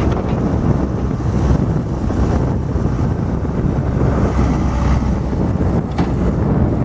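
John Deere 270 skid steer's diesel engine running steadily with a deep rumble, with a faint tick near the end.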